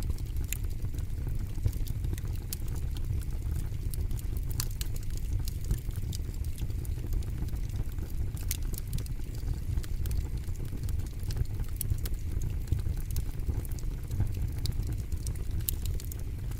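Wood fire in a fire pit crackling, with irregular sharp pops and snaps over a steady low rumble of the flames.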